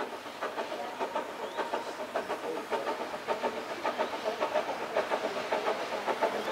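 Narrow-gauge steam train running, with a rapid, even rhythmic beat that grows slightly louder as it goes.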